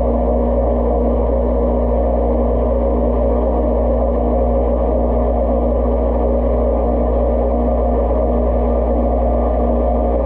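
Dishwasher running mid-cycle, heard from inside the tub: a steady hum from the wash pump motor with the rush of circulating water, unchanging throughout.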